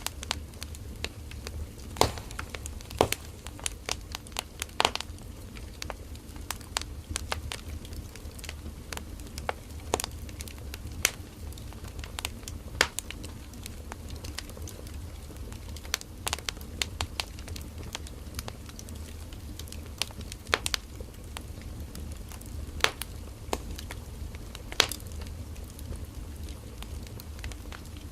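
Firewood burning in an open fire: steady low flame rumble with irregular sharp crackles and pops of the wood, a few standing out louder.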